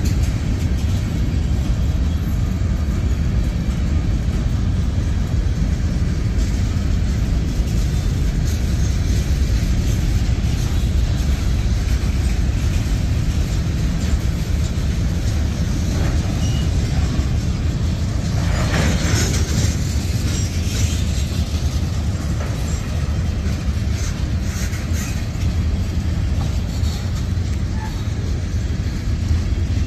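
Freight cars (covered hoppers and tank cars) of a mixed freight train rolling past, a steady low rumble of steel wheels on rail. A brief screech of wheels on the rail comes about two-thirds of the way through.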